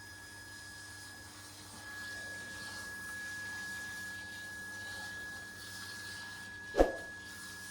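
A steady high electric whine over a low hum and faint hiss, with one sharp knock about seven seconds in.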